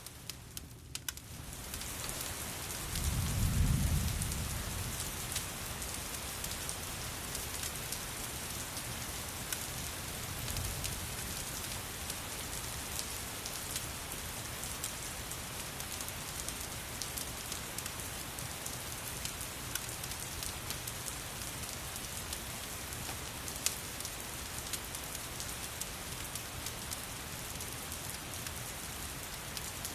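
Steady rain falling, with a low rumble of thunder about three seconds in and a fainter rumble around ten seconds. Small sharp ticks are scattered through it.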